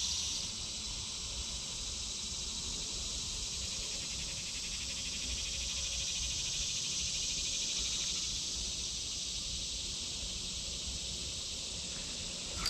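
Insects chirring outdoors in a steady high buzz, a little louder and with a rapid pulsing for the first half second.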